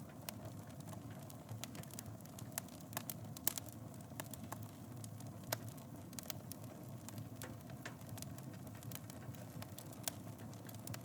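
Wood fire burning in a fireplace: a steady low rush with frequent, irregular sharp crackles and pops, the loudest pops about three and a half and five and a half seconds in.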